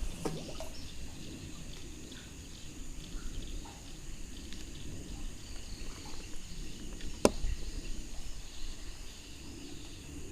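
Night insects such as crickets keeping up a steady high chirring chorus, with low handling rumbles near the microphone and one sharp click about seven seconds in.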